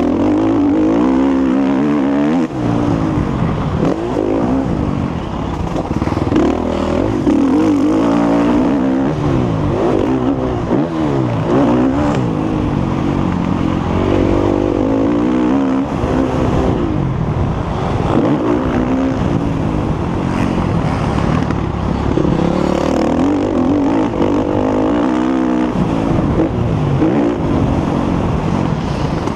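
Motocross bike engine revving hard and backing off again and again, its pitch climbing and dropping every second or two as the rider accelerates, shifts and brakes around the track.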